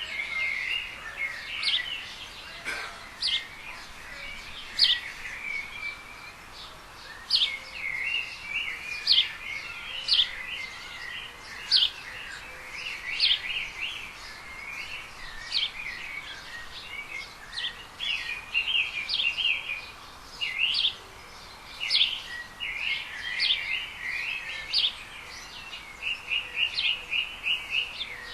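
Small songbirds chirping and singing: a continuous stream of short, high, sharp notes and chattering, with no let-up.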